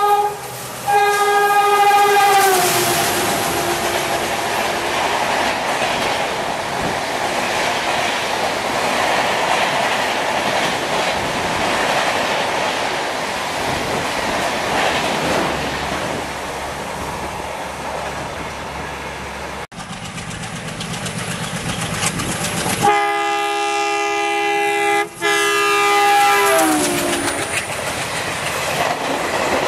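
Passing trains. A train horn sounds and drops in pitch as the train goes by, then gives way to the rushing and clatter of coaches passing at speed. About two-thirds of the way through, after a sudden break, a second horn sounds for a few seconds and falls in pitch as it passes, followed again by wheel clatter.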